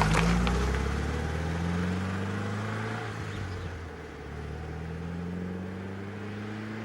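Lancia Gamma flat-four boxer engine accelerating. Its pitch rises, drops at a gear change about three seconds in, then climbs again.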